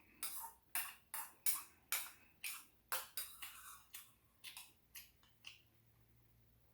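Close-miked chewing of rice cake ramen: a steady run of short, crisp chews, about two to three a second, that stop about five and a half seconds in.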